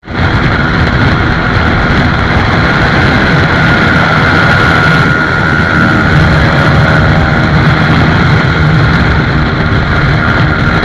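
Motorcycle running steadily at speed, a loud, even rush of engine and riding noise.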